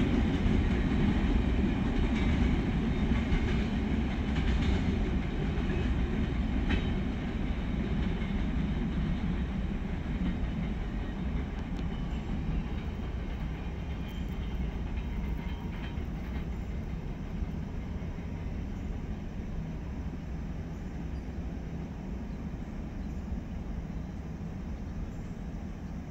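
Freight train of a Norfolk Southern grain train rolling away down the track: a steady rumble with wheel clatter that slowly fades.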